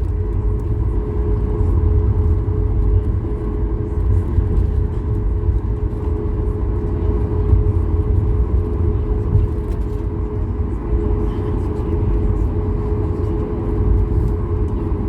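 Steady cabin noise inside a Boeing 737-8200 MAX, heard from a passenger seat: a deep, even rumble with a steady hum from the CFM LEAP-1B engines running.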